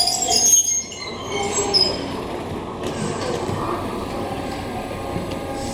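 Keihan Keishin Line train running on the rails, with a steady rumble and thin high wheel squeal. The level drops sharply just under a second in, then the running noise carries on evenly.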